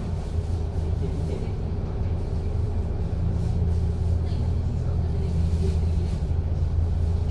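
MAN Lion's City double-decker bus engine running under way, heard from inside the cabin as a steady low drone that gets a little louder from about halfway, with faint body rattles.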